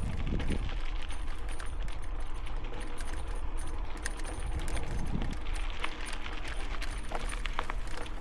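Bicycle ridden over rough forest ground: tyres crunching over the trail and light metal parts on the bike tinkling and rattling in many quick ticks, over a steady low wind rumble on the helmet microphone.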